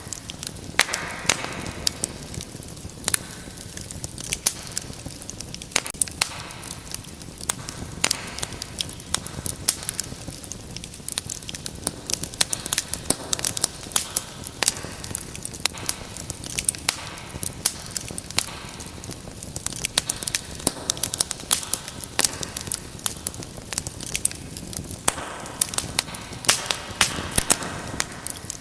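Wood fire crackling, with frequent sharp irregular pops and snaps over a soft steady hiss of flame.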